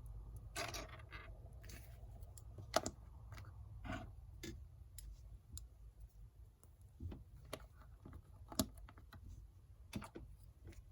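Small plastic LEGO minifigure pieces clicking and tapping as they are handled and set down: irregular, faint clicks, a couple of them sharper than the rest.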